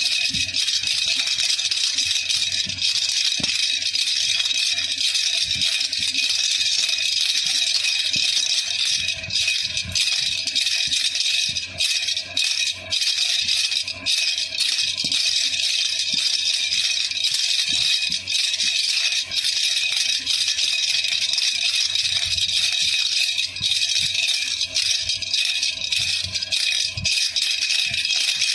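Baby rattle (jhunjhuna) shaken continuously, making a steady, dense rattling with a faint metallic ring and only brief dips.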